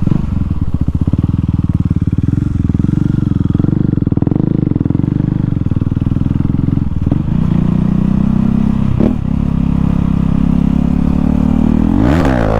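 KTM Duke 390's single-cylinder engine running with no exhaust muffler, loud and steady at low revs with a rapid pulsing beat, then revving up near the end.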